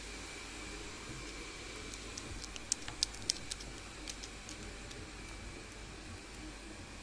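Caique parrot eating boiled corn: a quick cluster of small, sharp beak clicks in the middle, over a steady background hiss.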